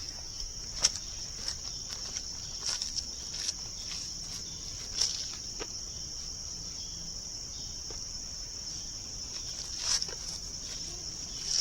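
A steady, high-pitched insect chorus, crickets chirring without a break, with scattered footsteps and small knocks and clicks over it.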